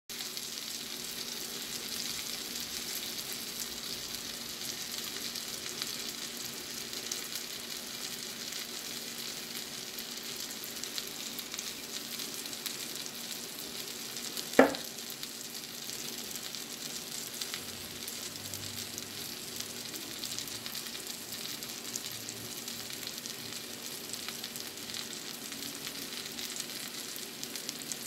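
Halibut steaks and cherry tomatoes frying in garlic butter in a frying pan: a steady sizzling hiss full of fine spattering ticks. One sharp click stands out about halfway through.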